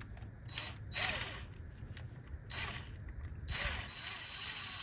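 Ratchet wrench clicking in four short runs as a bolt on the engine is worked loose.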